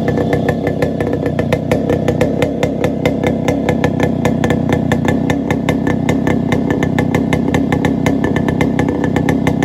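Yamaha RX100's single-cylinder two-stroke engine running without a muffler, holding a steady speed with a rapid, even crackle of open exhaust pulses.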